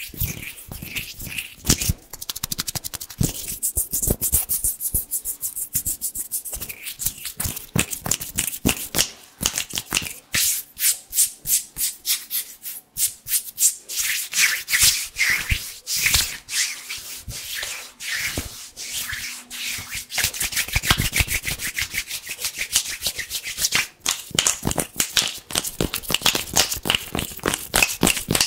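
Hands rubbing together fast and hard close to the microphone: a crisp, dry friction hiss in rapid strokes, swelling and easing in waves.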